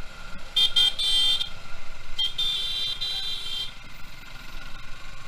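Vehicle horn honking in traffic: a few quick toots and a longer blast, then a short toot and a longer blast about two seconds in, over the steady hum of riding.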